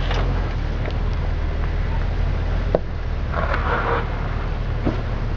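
Low, steady engine rumble of a Jeep crawling slowly over rocks. A sharp knock comes a little before the middle, then a short gravelly scrape, and a couple of lighter knocks near the end.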